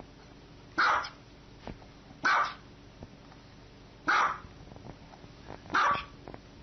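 A dog barking: four short single barks, evenly spaced less than two seconds apart.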